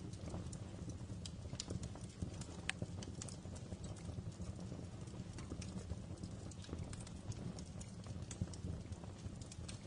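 Fireplace fire crackling: many irregular, sharp pops and snaps over a steady low rumble.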